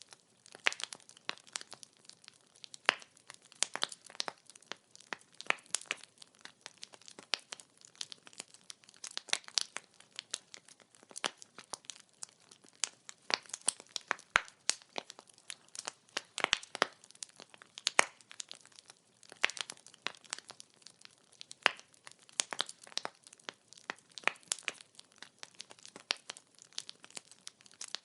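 Wood fire crackling: logs burning with a dense, irregular run of sharp pops and snaps over a soft hiss.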